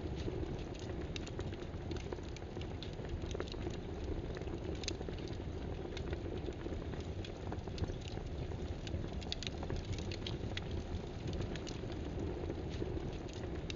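Computer keyboard typing: short, irregular key clicks, sometimes in quick runs, over a steady low background rush.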